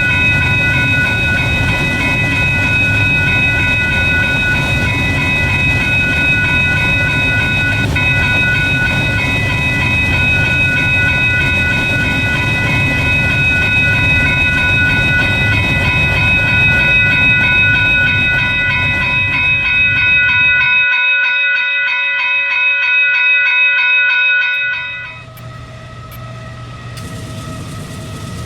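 A train passing on the BNSF main line: the heavy rumble of the rail cars rolling by, with several steady high ringing tones over it. The rumble and tones drop away about 25 seconds in, leaving a quieter background.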